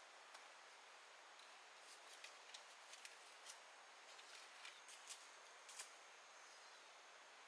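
Faint, irregular clicks and light snaps, about a dozen, over a quiet background hiss.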